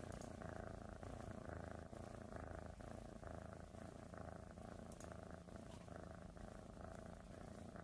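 A cat purring, faint and steady.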